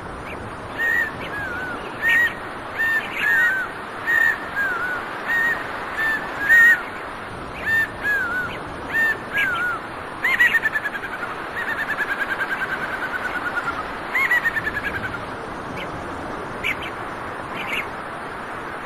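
A bird calling: a string of short, arched, high calls, one or two a second. About ten seconds in comes a long, fast series of notes that slowly falls in pitch, then a shorter falling series. A steady background hiss runs underneath.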